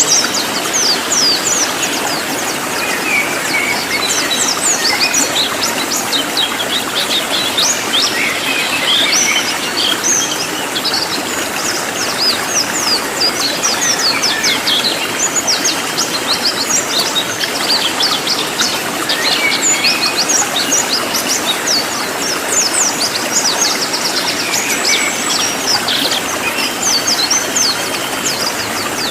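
A cililin songbird singing a dense, rapid run of high, thin chirps and trills in the 'nembak' style of Indonesian songbird-keeping, over a steady background hiss.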